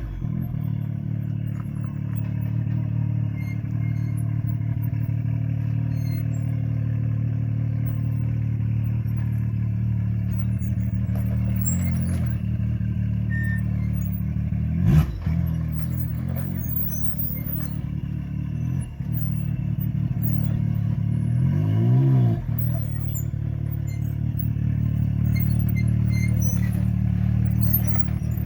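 Can-Am X3 XRS Turbo RR's turbocharged three-cylinder engine running while driving off-road, mostly steady with a few brief revs, the strongest about three-quarters of the way in. A single sharp knock about halfway through.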